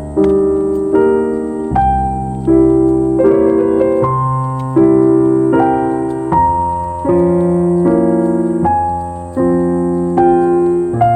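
Slow, calm piano music: sustained chords struck about once a second and left to fade.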